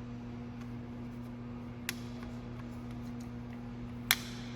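Steady low electrical hum from the powered-up Kiheung UMB 6 milling machine, with its spindle not turning. There is a faint click about two seconds in and a sharp click near the end.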